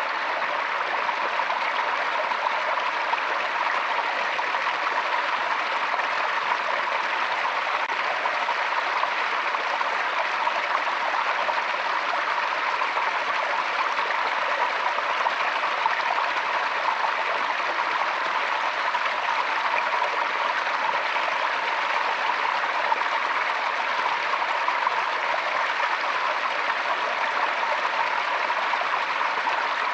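Forest stream running steadily: a continuous, even babble of flowing water.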